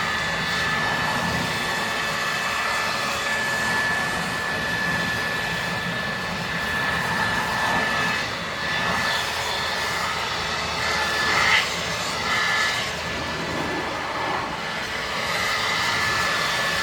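Ryobi 2000 psi pressure washer running steadily with a constant high whine, its spray hissing as it washes a car.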